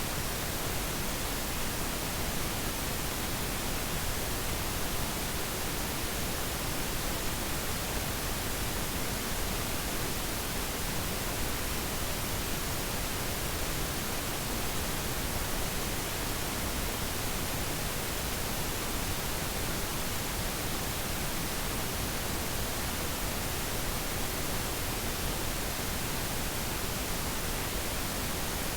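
Steady, unchanging hiss like static, even from low to high pitch, with no other sound.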